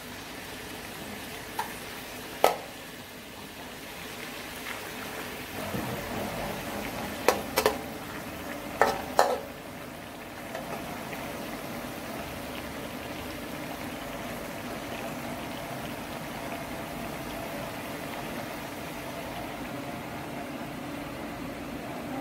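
Chicken livers frying and bubbling in their juices in a metal wok, a steady sizzle. In the first ten seconds a metal spatula knocks against the wok several times, sharply, twice in quick pairs.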